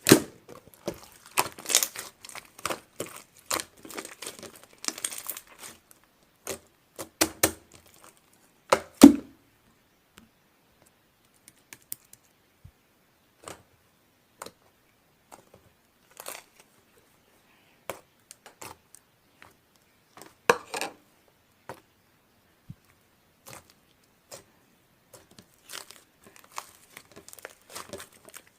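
Slime being pressed and stretched by hand, making sticky clicks and pops. They come thick and fast for the first nine seconds, ending on a loud pop, then turn sparse with a short flurry around the twenty-second mark and again near the end.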